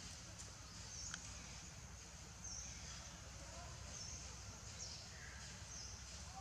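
Faint outdoor ambience: a bird repeating a short, high, falling call about every second and a half over a low, steady rumble, with a single small click about a second in.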